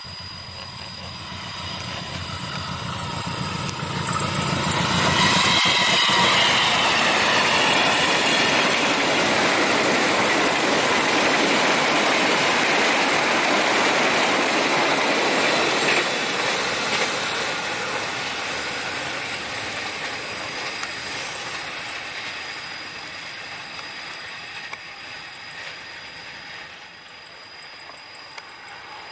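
A train passing close by: the rumble and rattle of its wheels on the rails rising as it approaches, staying loud for about twelve seconds, then fading as it moves away. Near the end, a few brief loud bumps.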